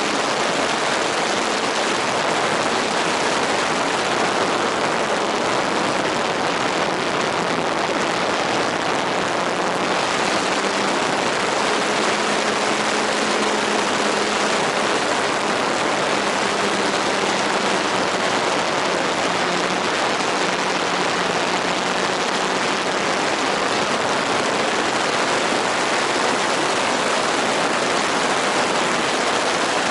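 Steady rushing noise throughout. Over it, a radio-controlled model airplane's engine hums faintly from about eleven seconds in, its pitch wavering slightly, and fades out a little after twenty seconds.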